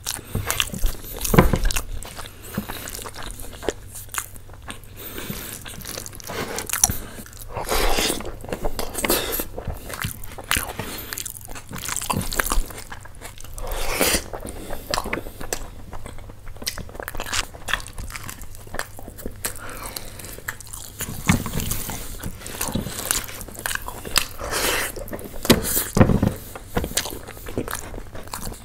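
Close-miked eating: chewing and biting into food, with wet mouth sounds and crunches, and a few louder bites now and then.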